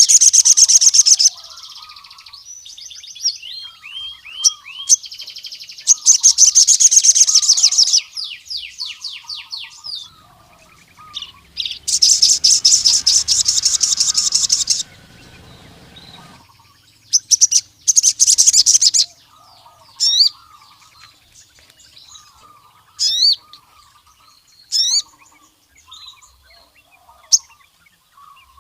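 Male ruby-cheeked sunbird (sogon) singing: loud, high, rapid rattling trills of one to three seconds, four times, then several short sharp whistled notes, over softer chittering calls throughout.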